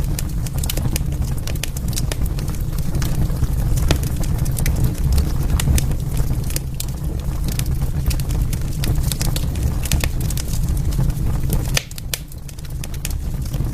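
Wood fire burning in a fireplace: a steady low rumble of flames under many sharp crackles and pops from the burning logs. The rumble drops away briefly about twelve seconds in, then returns.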